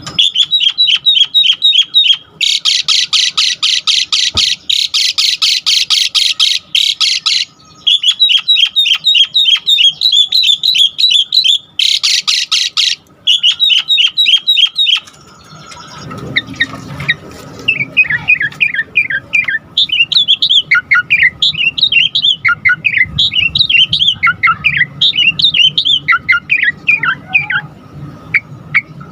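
Asian pied starling (jalak suren) calling hard. For the first half it gives rapid runs of repeated harsh notes broken by long raspy screeches. From about halfway it switches to a busy string of varied whistles and chirps.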